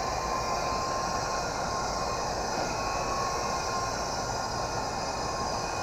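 Electric motor of a Fast Lane toy RC helicopter whining steadily in flight, with its rotor noise and wind rushing on the microphone.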